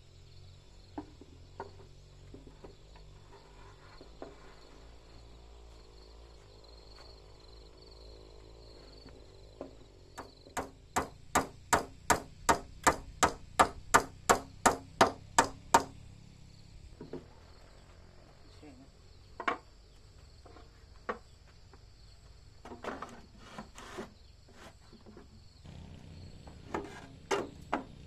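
Hammer striking wood, driving nails: a fast, even run of about sixteen blows, some three a second, in the middle, with scattered single knocks before and after.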